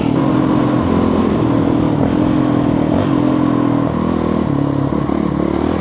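Motorcycle engine running steadily under way, its pitch rising and falling a little with the throttle.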